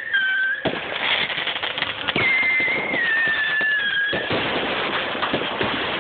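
Fireworks display: a bang about half a second in, then dense crackling from bursting shells, with a long whistle that slowly falls in pitch for about two seconds in the middle.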